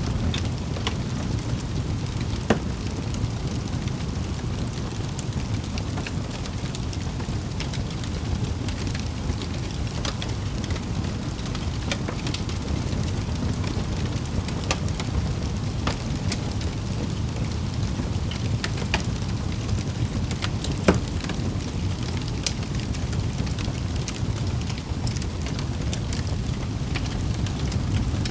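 Wood fire crackling in a fireplace: a steady low rumble of flames with scattered small pops. Two louder snaps stand out, one a couple of seconds in and one about two-thirds of the way through.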